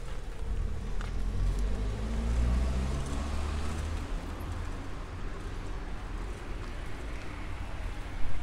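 A car driving past on the street, its engine rising in pitch and loudest about two to three seconds in, over steady traffic noise.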